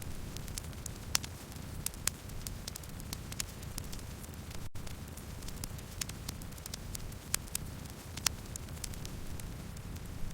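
Campfire crackling: frequent sharp pops and snaps of different strengths over a steady low rumble of burning, with a split-second dropout about halfway through.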